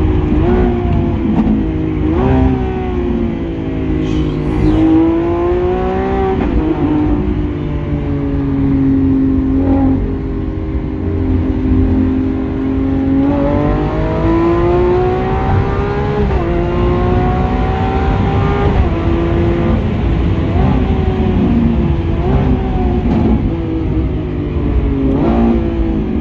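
Lamborghini Aventador SVJ's V12 engine with a Balboni exhaust pulling hard through the gears. Its pitch climbs and drops again and again, with a sharp break at each of about ten gear changes.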